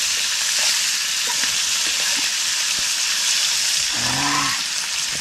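Hot cooking oil sizzling steadily in a pan of frying white-winged dove pieces, with scattered small pops.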